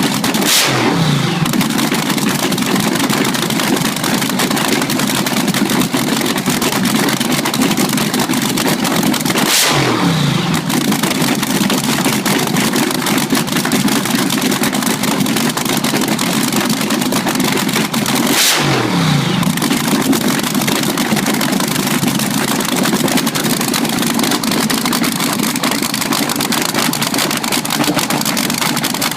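Race car engine running at a loud, rough idle, blipped three times about nine seconds apart, each rev dropping quickly back to idle.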